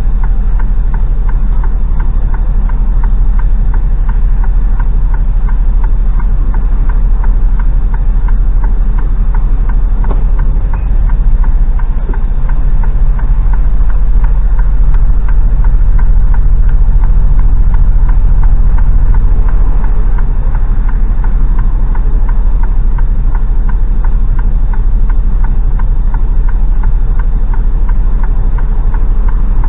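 Heavy goods truck's diesel engine running steadily as heard from inside the cab, with a dense regular pulsing; it grows a little louder for several seconds around the middle before settling back.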